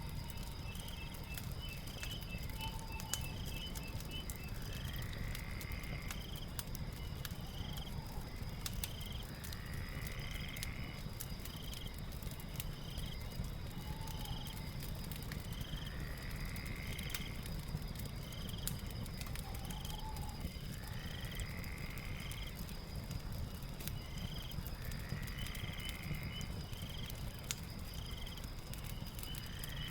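Night ambience of calling creatures over a crackling fire: a steady high trill, short chirps repeating about every second and a half, a longer swooping call about every five seconds, with scattered fire crackles and a low rumble underneath.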